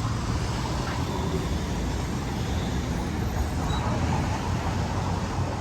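Steady motor vehicle noise: a continuous low engine rumble with road noise.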